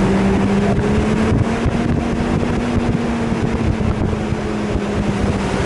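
A 4x4's engine running hard at high, fairly steady revs over a constant rushing noise, its pitch easing slightly near the end.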